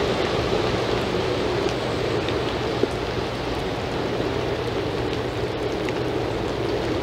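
Steady rain falling on wet paving and yard surfaces: an even hiss with scattered drop ticks, and one sharper tap about three seconds in.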